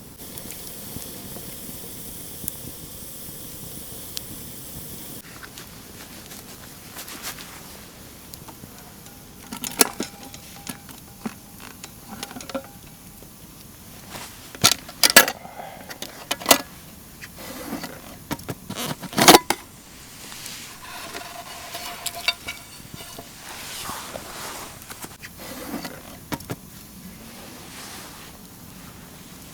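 Camp cooking sounds: metal cookware being handled, with several sharp clanks and knocks, a few of them ringing briefly, over a steady hiss in the first few seconds.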